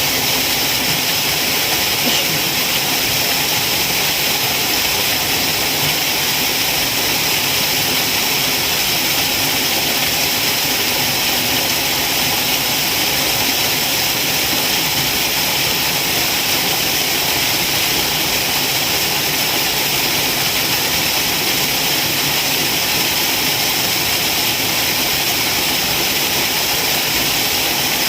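Waterfall: falling water rushing in a loud, steady, unbroken hiss with no changes.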